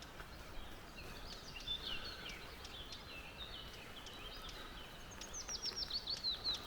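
A songbird singing a long, varied song of quick chirping notes, ending near the end in a fast run of short, downward-sliding notes, over a faint steady background hiss.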